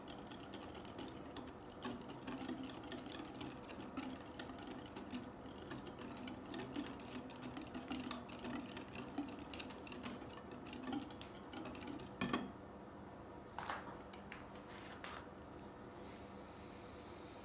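Rapid, irregular clicking and scraping of a utensil working in a bowl, with a sharp knock about twelve seconds in and a couple of lighter knocks after it.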